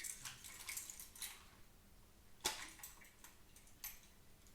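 Small plastic clicks and rustles of a computer mouse being handled and pried open, with one sharper click about two and a half seconds in.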